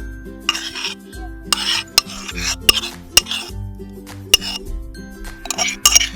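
A utensil scraping and clinking as mashed wood apple is scooped up, in repeated scraping strokes with sharp clinks every second or so, over background music.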